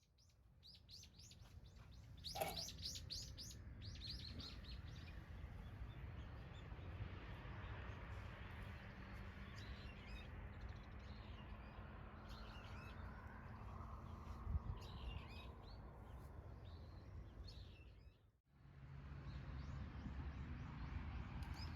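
Small birds chirping in quick repeated runs, loudest a couple of seconds in and scattered again later, over a steady low outdoor rumble. The sound drops out briefly near the end, then the rumble resumes.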